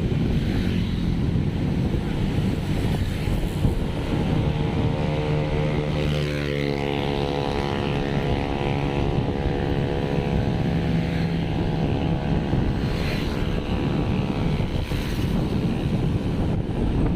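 Wind buffeting the microphone over a steady vehicle rumble, with a passing engine tone sweeping in about six seconds in and fading out a few seconds later.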